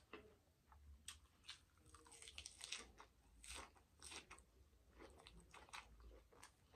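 Faint, close-miked chewing of a person eating salad and spaghetti with meat sauce: irregular soft clicks and small wet mouth noises.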